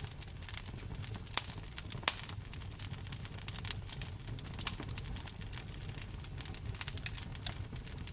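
Wood fire crackling: dense, irregular snaps and pops over a low steady rumble, with a few louder pops about a second and a half in, at two seconds, and again near five seconds.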